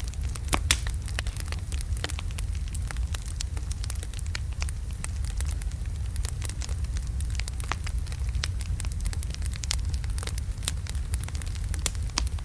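Wood fire of large burning logs crackling, with frequent sharp irregular pops and snaps over a steady low rumble of the flames.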